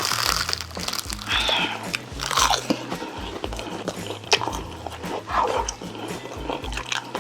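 Close-miked eating of Korean braised chicken (jjimdak): irregular biting and chewing with wet mouth smacks, and a few louder mouth sounds about 1.5, 2.5 and 5.5 seconds in.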